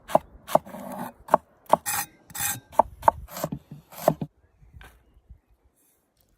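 Knife working on a wooden cutting board: a run of sharp, irregular chops mixed with short scraping strokes, stopping about four seconds in.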